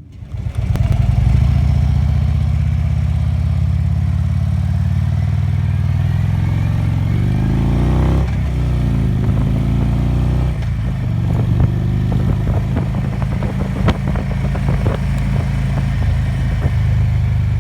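Harley-Davidson Electra Glide's V-twin engine pulling away and accelerating under way, loud and low, with its pitch sweeping up and down about eight seconds in as the revs change.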